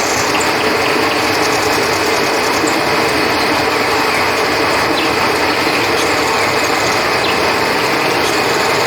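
Steady rush of flowing river water, with crickets chirping in a continuous high trill.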